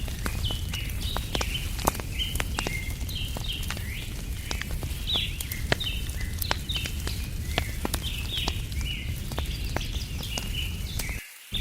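Campfire crackling with sharp pops over a steady low rumble, while small birds chirp over and over in short, falling notes. Near the end the sound briefly drops out.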